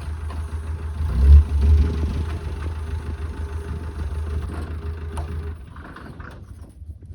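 An engine or motor running steadily with a deep hum, loudest about a second and a half in, dying away after about five and a half seconds.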